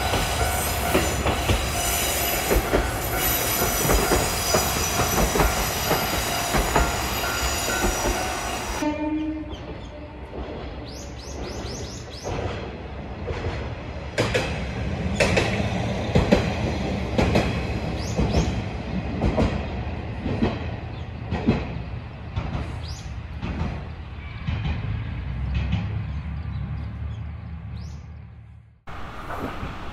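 An Isumi Railway diesel railcar passing close by, with steady ringing tones over its running noise for the first nine seconds or so. The sound then changes abruptly to a low rumble broken by many irregular clicks, like wheels over rail joints.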